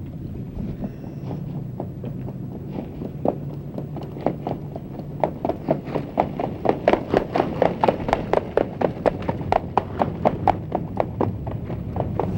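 Hoofbeats of a harness horse at speed, an even beat of about four strikes a second, over a low rumble. The strikes grow louder as the horse comes by and ease off a little near the end.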